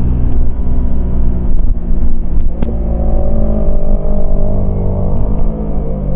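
Yamaha MT-25's parallel-twin engine running under load on the move, its pitch rising about two and a half seconds in as it accelerates. Two sharp clicks come around the same moment.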